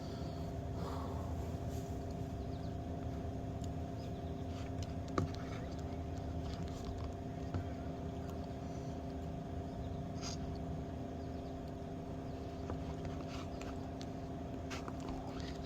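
A steady machine hum with several fixed tones over a low rumble, with a few faint clicks and taps, one sharper click about five seconds in.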